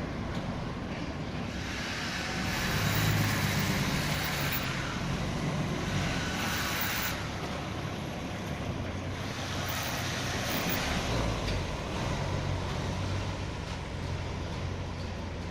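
Hyundai dump truck's diesel engine running steadily, with a rushing hiss that swells and fades three times.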